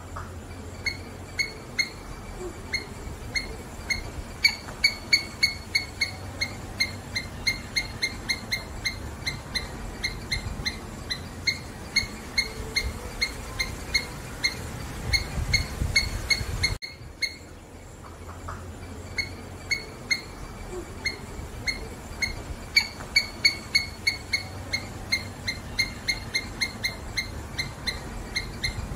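A small animal's repeated short, high chirping calls, several a second at an uneven pace, over a low rumble. The sequence cuts off about seventeen seconds in and starts over.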